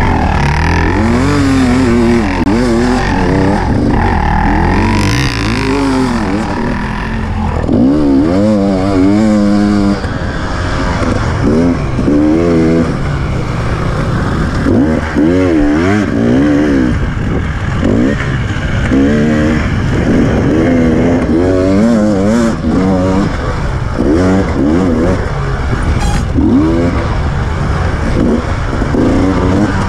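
KTM 300 EXC TPI single-cylinder two-stroke enduro engine under hard riding, its pitch rising and falling again and again as the throttle is opened and closed, about a dozen surges in half a minute.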